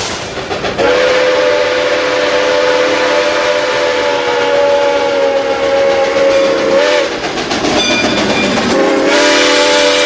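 Train horn sounding a long blast of about six seconds, then a second blast starting near the end, over the steady rumble of a moving train.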